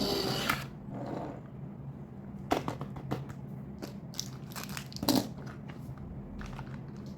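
Plastic being handled: scattered crinkles and sharp clicks, busiest from about two and a half seconds in, after a brief burst of noise at the start.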